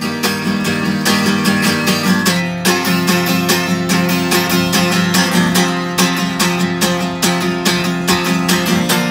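Acoustic guitar strummed in a steady rhythmic chord pattern, an instrumental passage with no singing.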